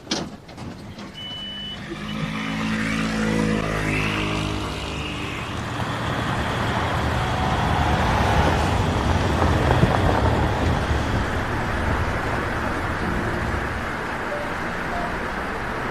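A motor vehicle's engine running as it pulls away, then steady road noise. A short knock comes right at the start.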